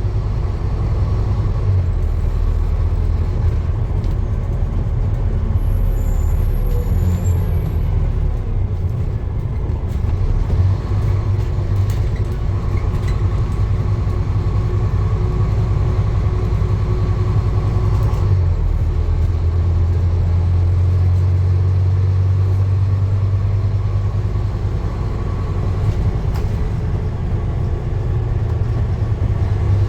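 Steady low rumble of a motor vehicle running, its low hum shifting in pitch twice along the way.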